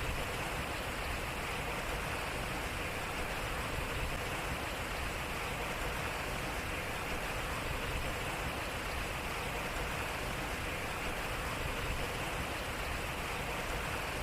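Water flowing and splashing at a turning waterwheel, a steady, even rush of water with no separate knocks.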